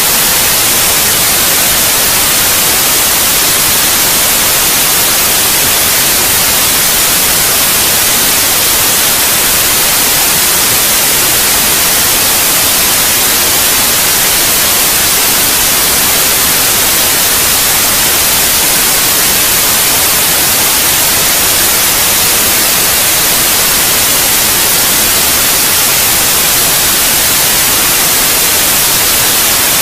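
Steady, loud white noise: an even, unchanging hiss, bright and heavy in the high end, played as a sleep aid for babies.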